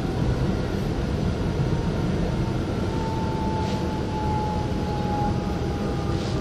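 Interior of a GYSEV Ventus (Stadler KISS) electric multiple unit in motion: steady rumble of the wheels on the track, with a faint electric whine that falls slightly in pitch over the second half as the train slows alongside a station platform.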